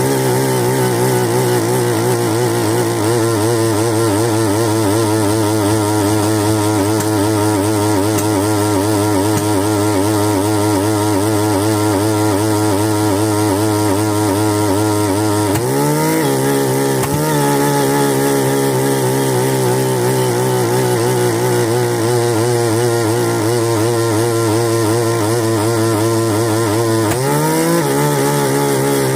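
Bernard Moteurs W14 engine running steadily. Its speed dips briefly and picks back up twice, about halfway through and again near the end.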